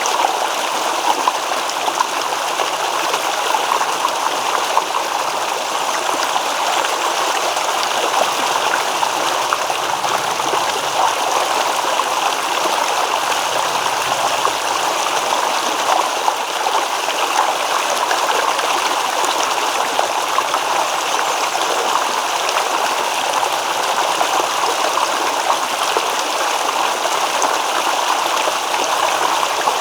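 Small stream babbling steadily over rocks, a continuous rush of rippling and gurgling water.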